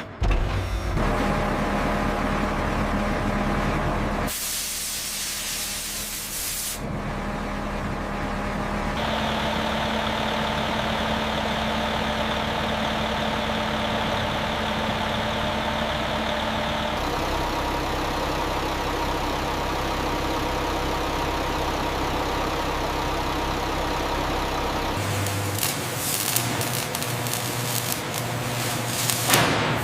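Steady industrial machinery noise, humming with a hiss, in a run of separate stretches that change abruptly every few seconds. About four seconds in, a brief stretch of loud high hissing comes in, like a spray or air release.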